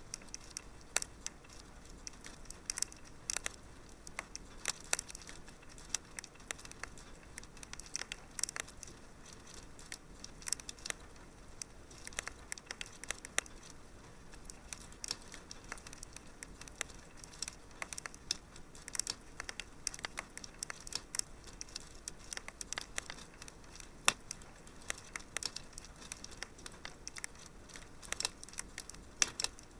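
Wood fire crackling in a fireplace: a steady low hiss with irregular sharp pops and snaps, one louder pop about two-thirds of the way in.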